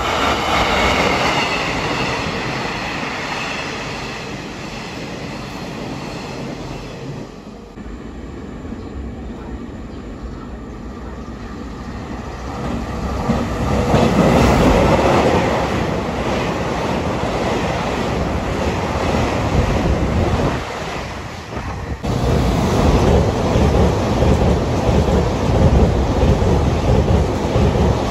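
Taiwan Railway electric trains running through stations. One train's rumble fades away, then an EMU3000 express is heard approaching and running past the platform, its wheel-on-rail noise rising loud and staying loud as the cars go by.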